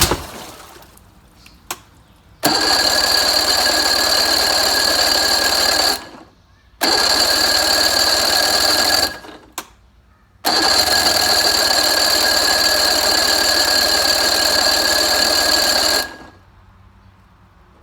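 Electric starter cranking a 1986 Force 85 hp three-cylinder two-stroke outboard, choked and primed, in three bursts of a few seconds each with short pauses between. The engine does not catch and run.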